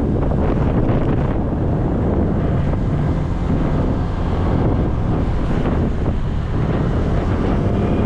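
Heavy wind buffeting the microphone of a GoPro on a moving motorcycle, as a steady loud rumble.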